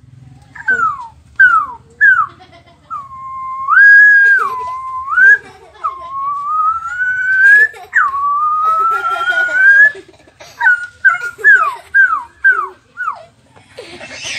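A boy imitating an odong-odong children's ride with his voice, in high whistle-like tones: a few short falling chirps, a held tone that jumps up and back down, two long rising siren-like glides, then a quick run of falling chirps near the end.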